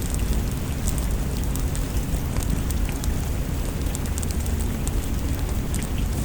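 Wood fire crackling in a fireplace, with scattered sharp pops over a steady low rumble, mixed with rain.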